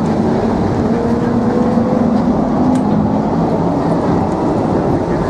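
DFW Skylink automated people-mover train running, heard from inside the car: a steady loud rumble with a faint whine that slowly rises in pitch.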